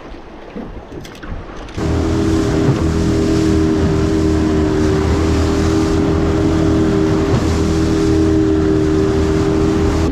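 Boat's outboard motor running steadily under way with wind noise on the microphone; the motor comes in abruptly about two seconds in, after a stretch of wind alone.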